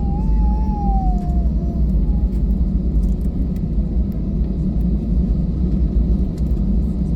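Steady low rumble of a jet airliner's engines and airflow heard inside the passenger cabin. A brief wavering high-pitched tone slides downward during the first second or so.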